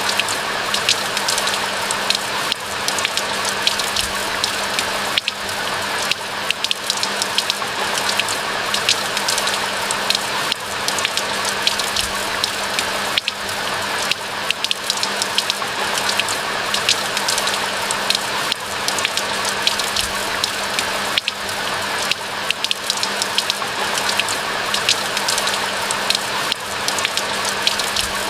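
Steady rain falling, a continuous even patter with many close drops ticking sharply on top.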